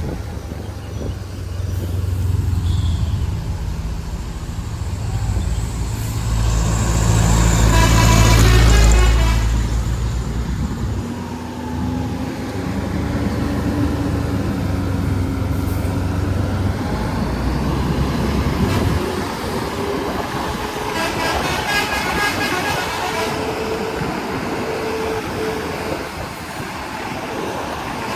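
Heavy diesel road traffic on a mountain road: a large engine running with a deep rumble that swells and fades, and a vehicle horn sounded twice, about a third of the way in and again about three quarters through.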